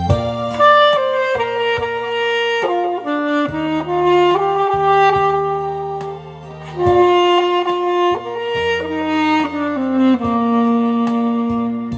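Alto saxophone playing a slow song melody in long held notes that step up and down, over an accompaniment with low bass notes and a steady beat.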